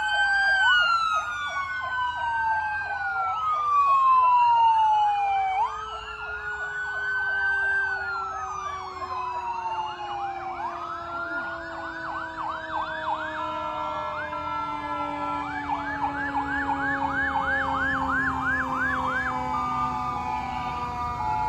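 Several fire truck sirens sounding at once. Wails rise and fall every couple of seconds at first, and later quick up-and-down yelp cycles come in, while a lower siren tone slides slowly down throughout.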